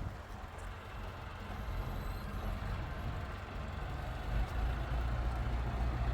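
A heavy engine running with a steady low rumble, which gets louder about four seconds in.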